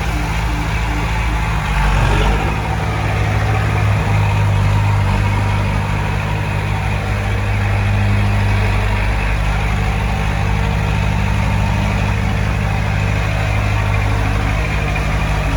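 Heavy diesel engine of earthmoving equipment running steadily at low speed, with a brief swell about two seconds in.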